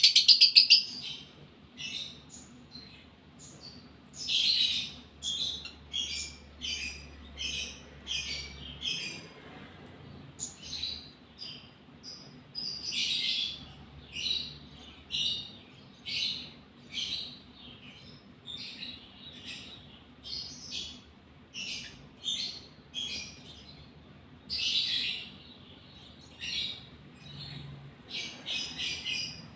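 Lovebird in breeding condition chirping: a loud run of rapid shrill calls in the first second, then short high chirps about once a second, some in quick clusters.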